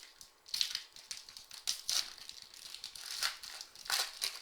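Trading-card pack being opened and handled: wrapper crinkling and cards sliding against each other in a string of short, irregular rustles.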